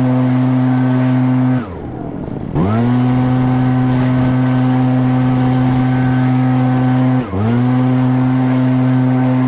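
Echo PB-9010T backpack leaf blower's two-stroke engine running at full throttle. About a second and a half in, the throttle is let off and the revs fall for about a second before climbing back to full; a second quick dip and recovery comes near the end.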